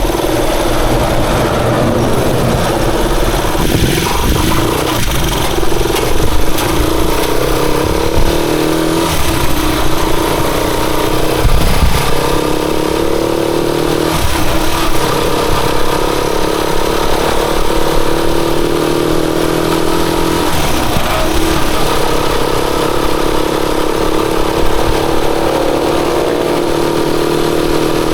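Rusi Chariot 175 motorcycle engine running steadily under way, with wind rumbling on the microphone.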